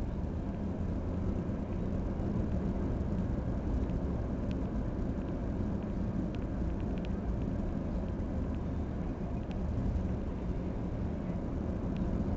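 Steady low rumble of a car on the move, with a few faint ticks.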